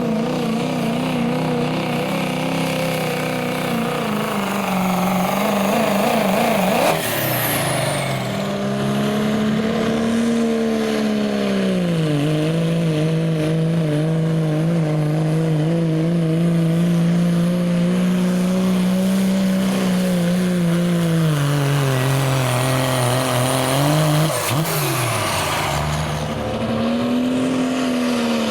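Turbocharged diesel pickup engine running hard under load while pulling a weight sled. Its note holds fairly steady and dips in pitch several times, with a faint high falling whistle now and then.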